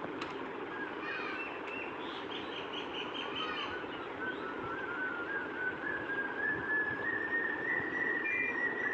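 Birds calling: a few chirps and a quick run of short repeated notes, then a long string of short notes that slowly rises in pitch, over a steady background hiss.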